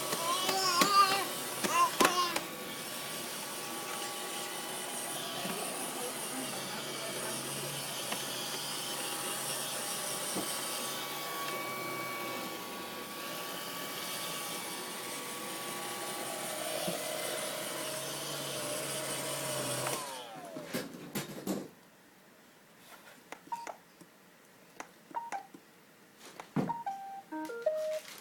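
Vacuum cleaner motor running steadily, then switched off about twenty seconds in, its hum falling away as the motor winds down. Afterwards only scattered light knocks and clicks.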